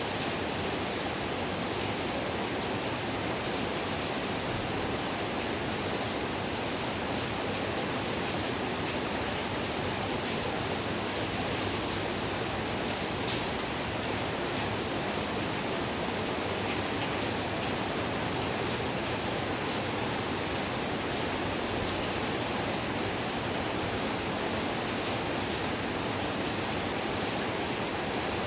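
Heavy rain falling in a steady, dense hiss that neither builds nor eases.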